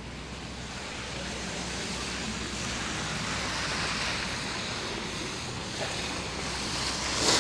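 Tyre noise of a car on a wet, snowy street, a rushing hiss that grows steadily louder as the car approaches.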